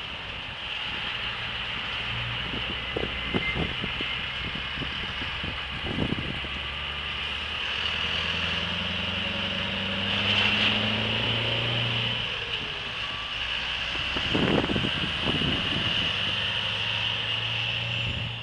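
Scania V8 truck engine running and pulling away, its pitch climbing through the middle and then dropping back.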